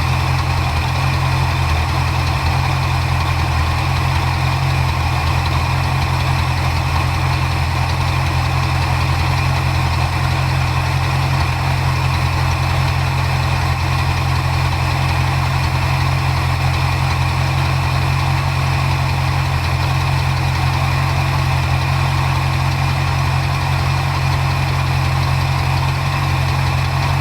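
Ford 351 Windsor 5.8 L V8 idling steadily, its rebuilt carburetor's idle mixture just set by ear to smooth out the idle.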